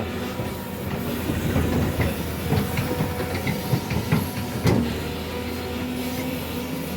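Heavy machine's engine running steadily, with a run of knocks and clanks through the middle.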